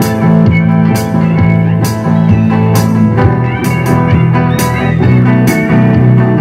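A live band playing music, with sustained instrumental notes over a steady beat of drum hits about once a second.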